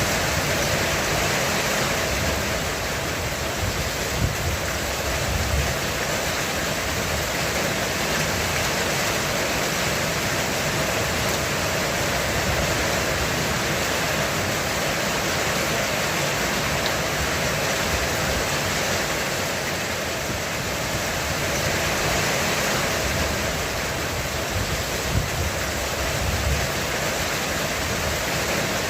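Heavy rain falling steadily on a roof, an even dense hiss, with low rumbles of distant thunder swelling up about four seconds in and again near the end.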